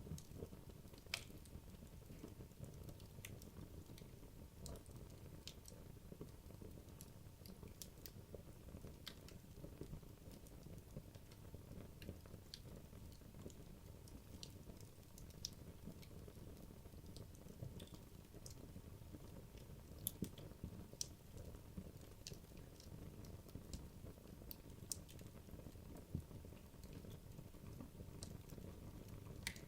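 Wood logs burning in a fireplace: a low, steady rush of flame with sparse sharp crackles and pops scattered through, a few louder ones about twenty seconds in.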